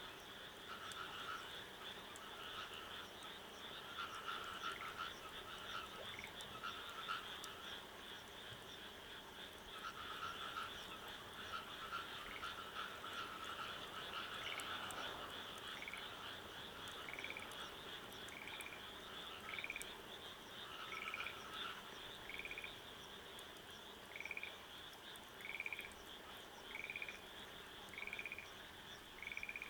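A chorus of frogs calling over a steady high-pitched trill. Through the first half there are irregular lower calls. From about halfway, one frog repeats a short call roughly every second and a bit.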